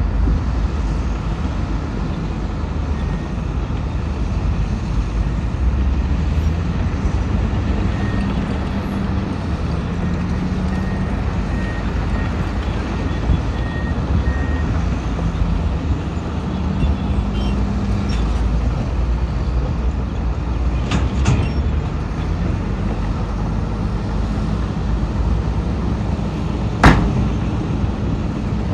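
Heavy diesel earthmoving machinery running steadily, its engine note rising and falling under load. Faint repeated beeping comes in about a third of the way through. There are a few sharp clicks about three-quarters in, and one loud sharp clank near the end.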